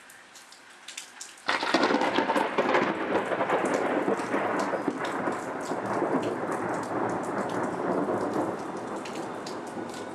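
Rain pattering, then about a second and a half in a sudden thunderclap breaks and rumbles on, slowly fading over the following seconds.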